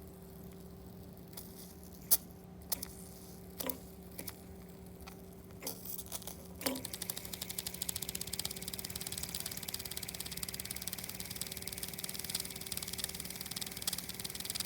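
Very small steam engine, fired by a denatured-alcohol burner: a few separate clicks and knocks, then about halfway through it starts running with a fast, even ticking.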